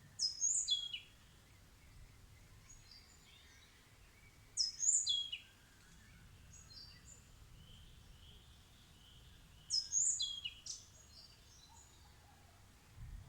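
A bird singing a short, high phrase of quick notes that step downward, three times about five seconds apart, with fainter bird chirps in between.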